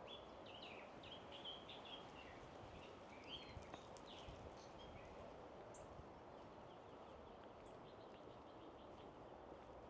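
Faint birdsong: several birds chirping and twittering in quick short phrases, busiest in the first half, with a few thin high chirps later, over a quiet background hush.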